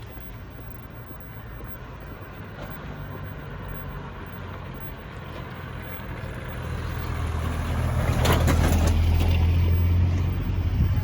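Low engine hum of an approaching motor vehicle, growing louder from about halfway in, with a short rushing noise about eight seconds in.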